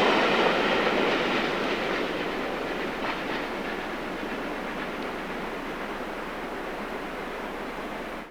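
Steam-hauled passenger train running across a viaduct: a steady rumble of wheels on the rails with faint clicks, fading gradually as the train moves away.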